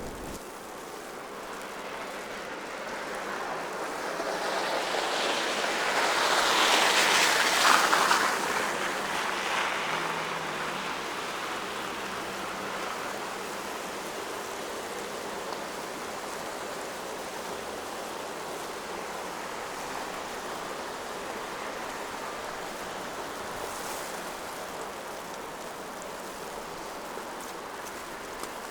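Steady hiss of a wet, snowy city street. A vehicle passes on the wet road, its tyre hiss swelling to a peak about seven seconds in, then fading.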